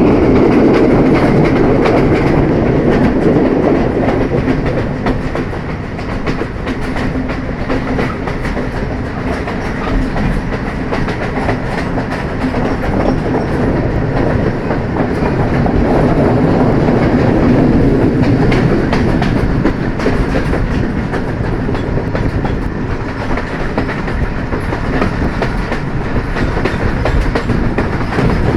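A train running along the track: a continuous rumble with the wheels clicking over rail joints, swelling louder near the start and again about halfway through.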